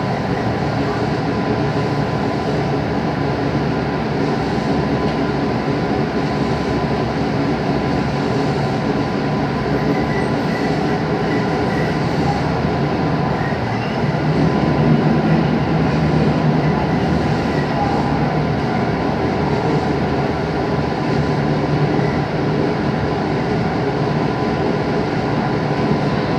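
Steady running noise heard from inside the cabin of a JR 221 series electric train, its wheels and motors rumbling as it runs slowly on the line. It grows a little louder about fourteen seconds in, then settles again.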